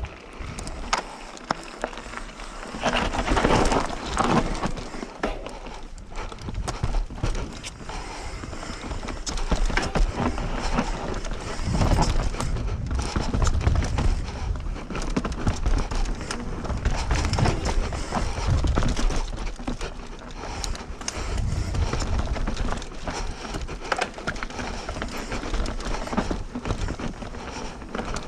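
Hardtail mountain bike (Bird Zero AM) riding a bone-dry dusty dirt trail: tyres rolling over dirt and rocks with constant rattling clicks from the bike and a low rumble, growing louder about three seconds in as the bike gets going.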